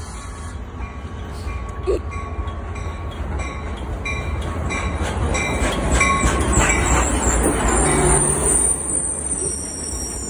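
Caltrain bilevel commuter train pulling into the station: a low rumble with a regular beat of about two clicks a second, then a high squeal from the wheels and brakes setting in about six seconds in as it slows to stop.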